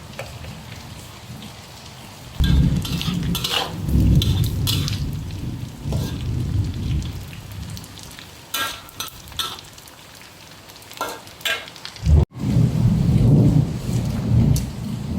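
Thunder rumbling over heavy rain in two long rolls: the first comes about two seconds in, and the second follows a brief dropout near the end. A few sharp clicks are heard here and there.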